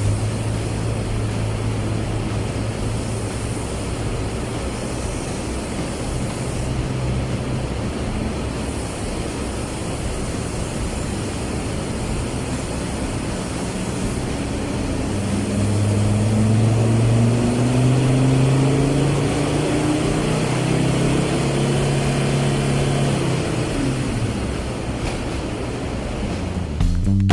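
Ford Ranger's 3.2-litre five-cylinder turbodiesel running at a steady low note. Just past halfway its pitch climbs as the engine accelerates, holds higher for a few seconds, then eases off near the end.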